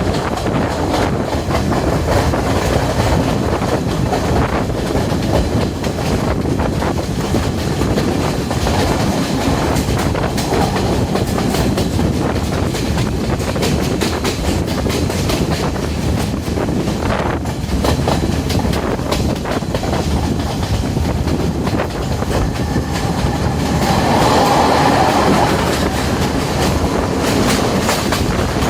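Diesel multiple-unit passenger train running along the track: a steady rolling rumble with the wheels clicking over rail joints. About three-quarters of the way through it swells briefly louder and higher for a couple of seconds.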